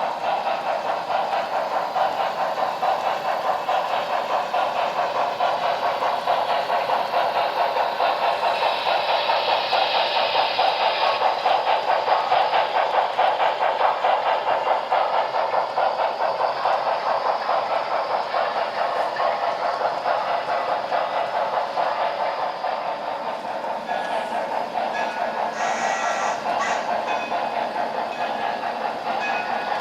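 HO-scale model steam locomotives running, a fast, steady chuffing with almost no bass. A few brief high squeals come late on.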